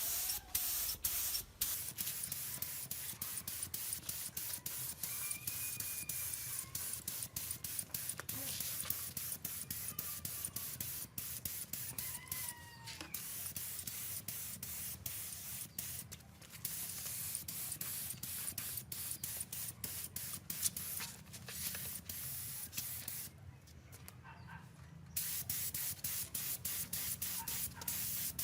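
Spray hissing steadily onto carburetor parts during cleaning, broken by many short clicks and stopping for about two seconds near the end before starting again.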